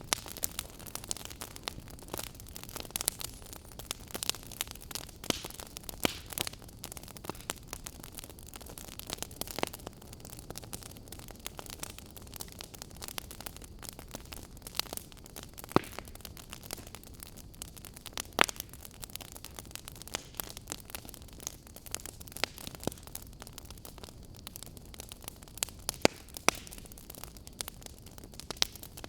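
Fire crackling: a steady soft hiss with irregular sharp pops and snaps, a few louder pops standing out now and then.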